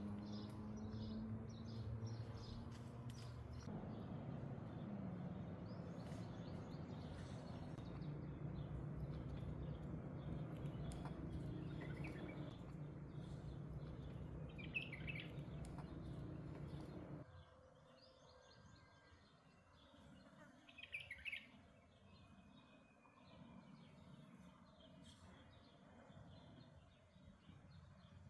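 Birds chirping off and on over a steady low rumble of background noise, which drops away suddenly about two-thirds of the way through, leaving fainter chirps.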